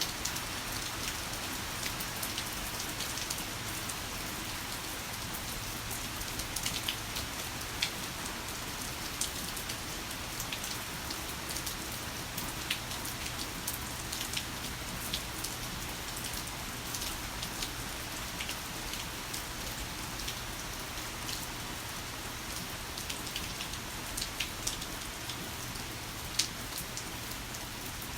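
Heavy rain falling steadily, with individual drops striking sharply and irregularly over a constant hiss.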